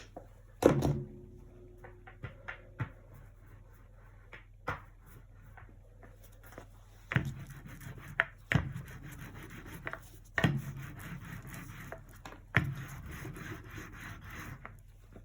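Acrylic painting at close range: a loud knock just under a second in and a few light taps, then from about seven seconds in a painting tool rubbing and scraping across the painting surface in long scratchy strokes, several of them starting with a tap.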